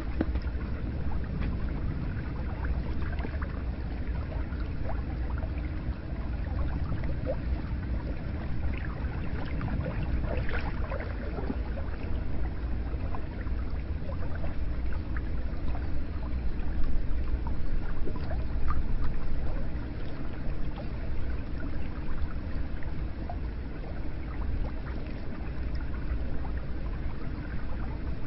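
Hot-spring water pouring and trickling steadily into a bath, a continuous low rush of water with small splashes and gurgles.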